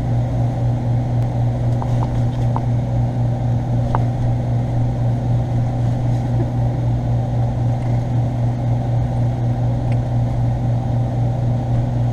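Steady low hum of a running motor, pulsing slightly and evenly, with a few faint ticks about two and four seconds in.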